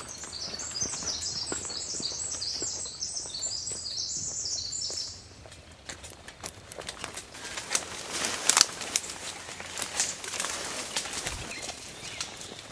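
A songbird sings a long, rapid, high-pitched song for about five seconds. Then leaves and brush rustle and crack with footsteps and clicks of gear as people push through undergrowth, loudest about two-thirds of the way in.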